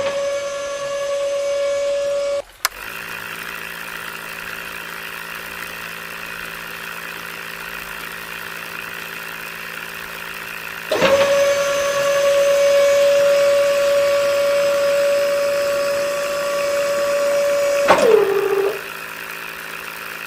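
A small motor running with a steady high whine that cuts off after about two and a half seconds, leaving a lower steady hum. The whine starts again about halfway through and winds down with a falling pitch near the end.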